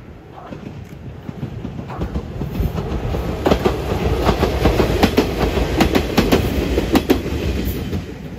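Ichibata Electric Railway 2100 series two-car electric train (ex-Keio 5000 series) passing by. It builds up as it approaches, is loudest for about four seconds mid-way with a run of sharp wheel clacks over the rail joints, then fades as it moves off.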